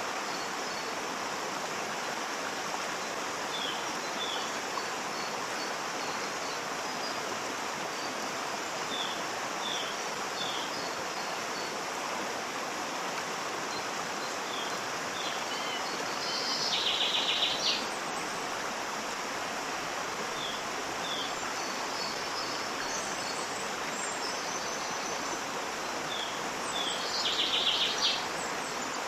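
Waterfall rushing steadily, with small birds chirping in short high repeated notes and two louder trilling bird calls, one about halfway through and one near the end.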